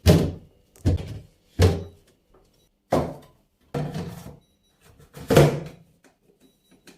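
Six sharp knocks and thuds, spaced irregularly, each fading within about half a second, from containers and refrigerator parts being set down and moved around a fridge.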